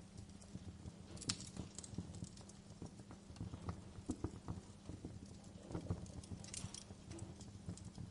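Wood fire crackling, with irregular pops and snaps over a steady low rumble; one sharp pop about a second in.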